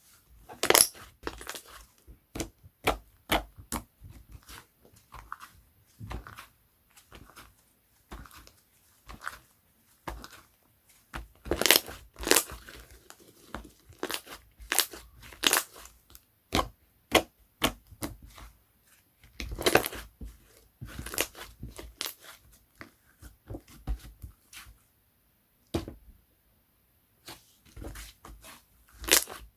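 Slime being handled and squeezed by hand, giving many irregular sharp pops and crackling clicks with brief pauses, the loudest clusters about a second in, around twelve seconds and around twenty seconds.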